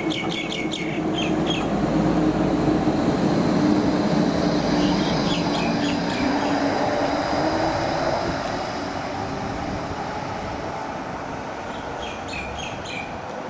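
Melbourne light-rail tram running on its rails: a steady rumble that swells over the first few seconds and slowly eases off, with a few short high squeaks from the wheels.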